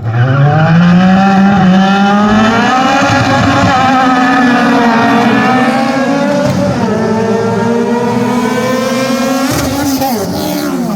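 Race car engine accelerating hard, its revs climbing from the start and dipping briefly about six and a half and ten seconds in, as on gear changes.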